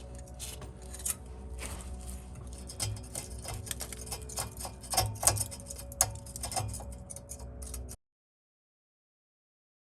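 Hand tools clicking and knocking on metal while loosening exhaust parts under a car, over a steady low hum; the sound cuts out completely near the end.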